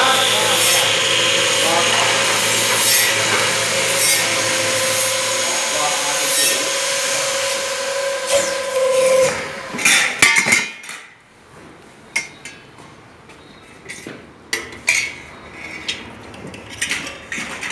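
Datyso MC 400 burr-free metal-cutting circular saw running through a cut with a steady whine and grinding rasp. The saw stops about nine seconds in, and scattered metallic clanks and knocks follow.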